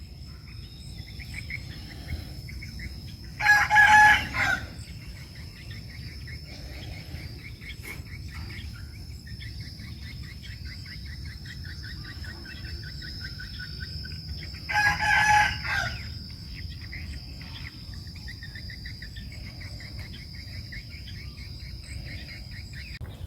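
A rooster crowing twice, about eleven seconds apart, each crow lasting about a second. A steady high-pitched whine and faint chirping run behind it throughout.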